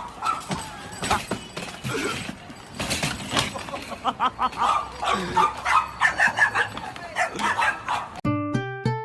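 A dog barking repeatedly in short irregular bursts, with sharp clicks and knocks among the barks. The sound cuts off suddenly near the end as guitar music begins.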